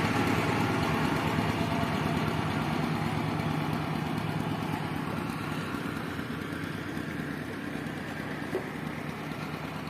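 A motor engine running steadily, slowly getting quieter.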